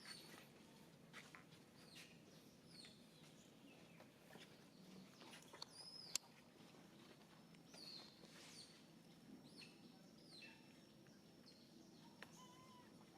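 Faint, scattered, high-pitched squeaking cries of a baby pigtail macaque, each sliding down in pitch, with a sharp click about six seconds in.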